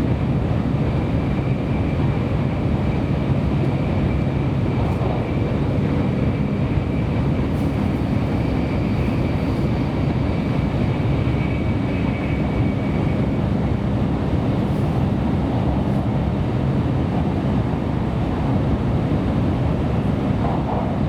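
Cabin noise of a Kyushu Shinkansen train running at speed, heard from inside the passenger car: a steady rumble of wheels on rail and air rushing past. A faint high whine sits over it and fades out a little past halfway.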